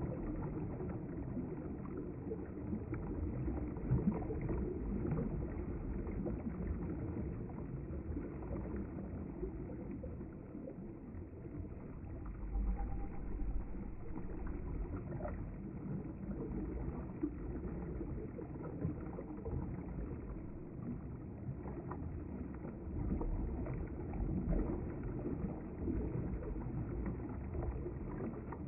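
River water flowing in a steady low rush, with small scattered splashes.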